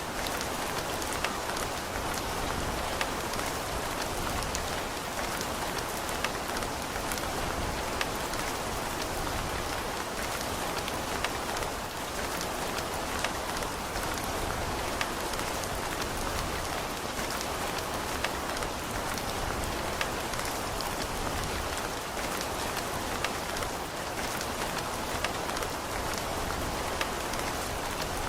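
Steady rain falling, with a constant hiss and many small sharp drop ticks on a surface throughout.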